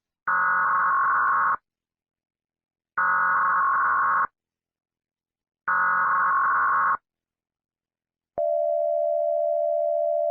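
Emergency Alert System header: three buzzing electronic data bursts, each just over a second long with pauses between them. Near the end a steady alert tone begins and holds.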